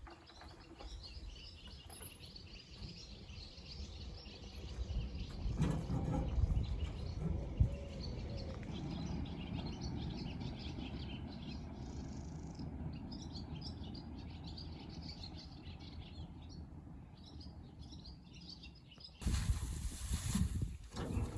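Small birds chirping and twittering over a low, rumbling outdoor background. About nineteen seconds in, a louder rough noise abruptly takes over.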